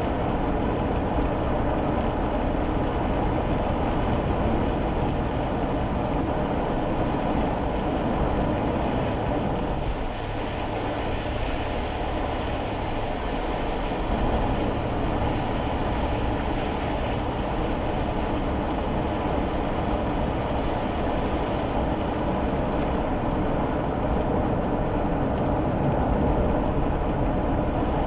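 Kei car driving on rain-wet roads, heard from inside the cabin: a steady mix of small-engine and tyre/road noise, dipping briefly about ten seconds in.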